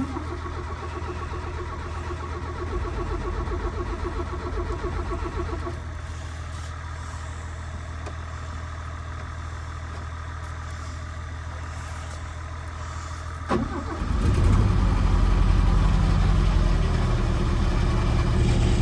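Old farm truck's engine idling steadily; about three-quarters of the way through there is a sharp clunk, and the engine then runs noticeably louder, working as the truck is put into motion.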